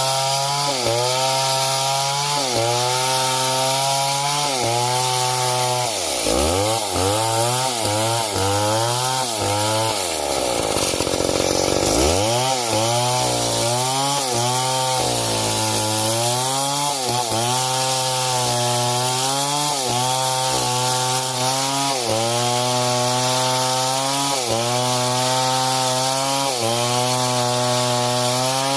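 Two-stroke chainsaw cutting wood at high revs, its engine pitch sagging and recovering about once a second as the chain bites under load. Twice the revs fall away steeply toward idle and climb back up, briefly around six seconds in and for about two seconds near the middle.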